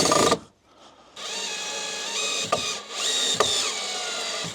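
Power drill driving screws into wood. A run of the motor whine stops about half a second in, and after a short pause the drill runs again, steadily, for about three seconds with a few small changes in speed.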